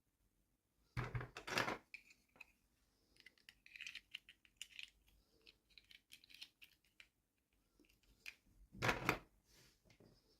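Hands unboxing small toys: plastic packaging crinkling and tapping in many small clicks, with two louder crackling bursts, about a second in and near the end.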